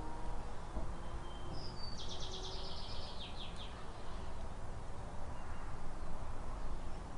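A songbird sings one short, high trill of rapidly repeated notes about two seconds in, over a steady low rumble.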